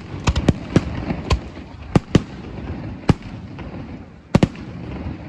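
Fireworks display going off: a run of sharp bangs, several in quick succession in the first second, then more spaced out, with a close pair near the end.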